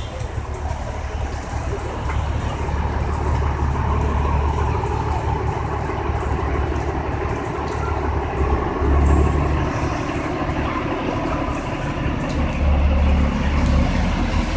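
Steady low rumble of road traffic or a moving motor vehicle, swelling louder briefly about nine seconds in and again about thirteen seconds in.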